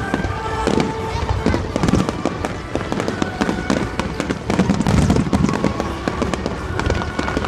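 Aerial fireworks going off in quick succession: repeated bangs from bursting shells with crackling between them.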